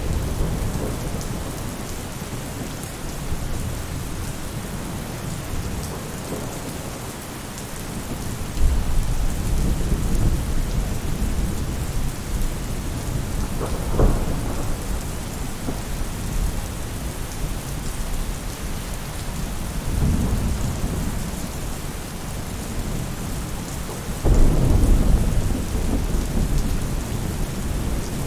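Steady rain falling on a roof, with thunder rumbling several times and one sharper crack about halfway through.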